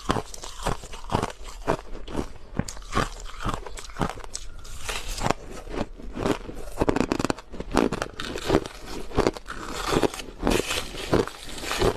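Crushed ice being bitten and chewed close to the microphone: a quick run of sharp crunches, several a second, with crackling between the bites.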